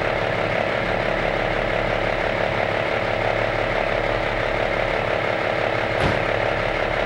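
Cummins NHC-250 inline-six diesel engine of a 1984 AM General M923A1 army truck running steadily, with a fast rattling clatter. A single sharp click about six seconds in.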